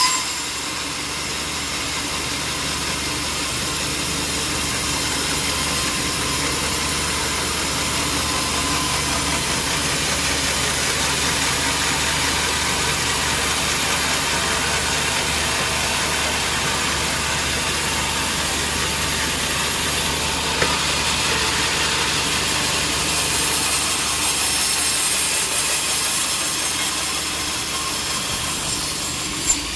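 Sawmill saw running steadily with a constant hiss, with a sharp click about two-thirds of the way through and another near the end.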